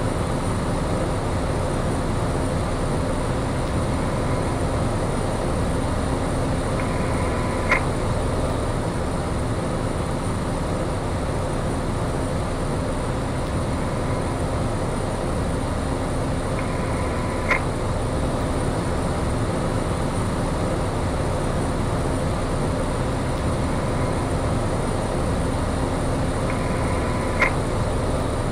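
Piper light aircraft's piston engine and propeller running steadily at full power in the climb after takeoff, heard from inside the cockpit. Three times, about ten seconds apart, a short faint tone ends in a sharp click.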